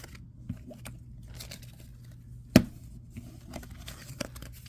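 Trading cards being handled: soft clicks and rustles of cardstock, with one sharp tap about two and a half seconds in, over a faint steady low hum.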